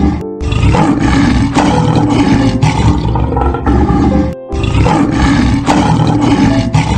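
Lion roaring in two long, loud stretches with a brief break about four seconds in, over background music.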